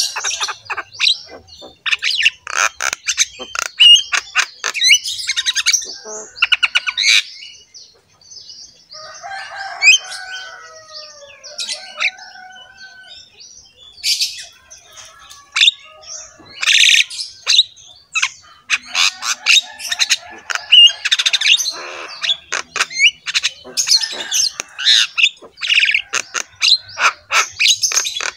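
Several birds chirping and calling in quick, overlapping bursts, thinning out for a few seconds in the middle before becoming dense again.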